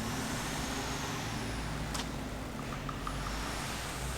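Steady low background rumble with a single sharp click about two seconds in.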